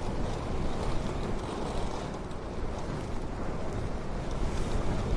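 Steady rushing wind, buffeting the microphone.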